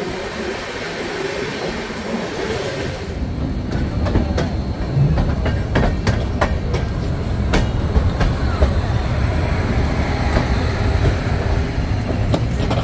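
Passenger train running on the rails: a steady low rumble with the wheels clicking over rail joints and points, heavier and more clattering from about three seconds in.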